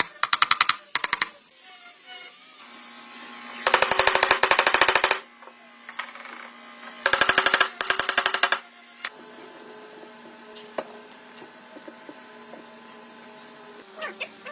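A power tool running in three short bursts of rapid, evenly spaced clicks, about a dozen a second, over a faint steady hum.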